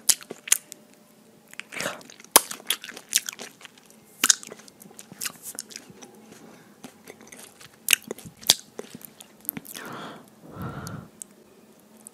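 Pineapple being chewed with loud lip-smacking, picked up by a lapel microphone held at the mouth: irregular sharp smacks and clicks.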